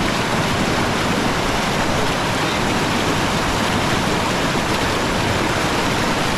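Rushing river water, a steady even sound of water flowing and tumbling close by.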